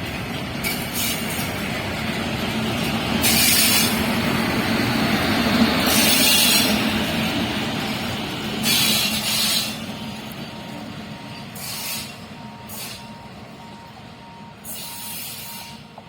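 Passenger train passing: a rumble of wheels on track that builds to a peak about six seconds in and then fades, with repeated bursts of hiss as it goes by. A faint steady beeping starts about ten seconds in.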